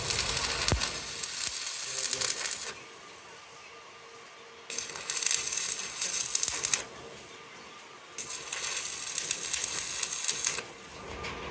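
Electric arc welding on a truck propeller shaft, a crackling sizzle in three runs of about two to three seconds each, with short pauses between them.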